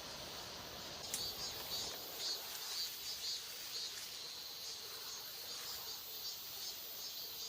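Outdoor insect and bird ambience: short high chirps repeating two to three times a second over a steady high-pitched insect hiss, with one faint click about a second in.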